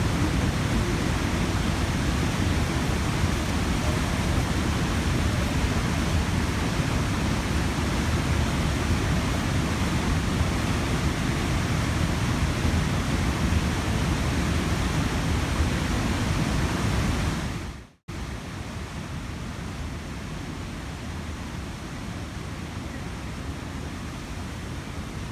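Waterfall rushing as a steady, even roar. About three-quarters of the way in it fades out for an instant, then carries on noticeably quieter.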